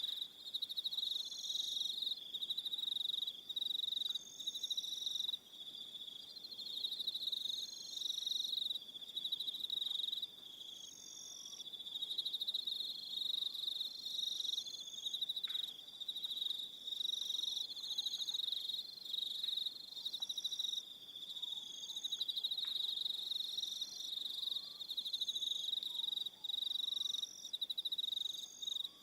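Crickets chirping in an evening chorus: a dense, high trill that comes in repeated bursts of a second or two, with fainter calls above it and a few faint short chirps lower down.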